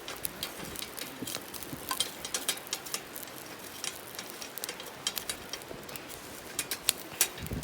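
Wood campfire crackling, with irregular sharp pops and snaps over a light hiss.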